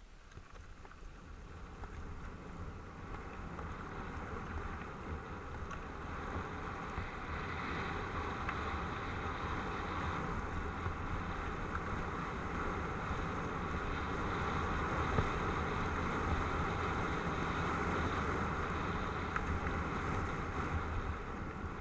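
Wind rushing over the microphone with tyres rolling on dirt as a mountain bike is ridden, growing louder over the first several seconds and then holding steady.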